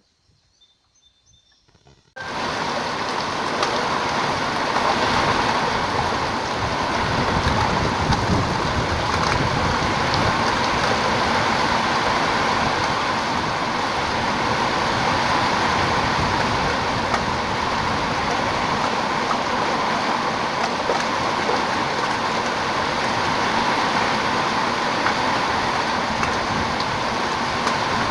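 Rain falling steadily, a dense, even hiss that cuts in suddenly about two seconds in after near silence.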